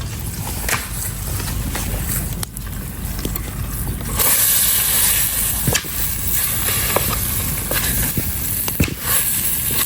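Minced lamb frying in olive oil in a titanium pot over a campfire, a sizzle that grows louder about four seconds in, with a few clicks from stirring, over a low steady rumble.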